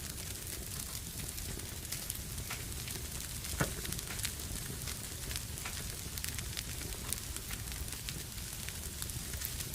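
Fire crackling in a fireplace: a steady hiss with frequent small pops and one louder pop about three and a half seconds in.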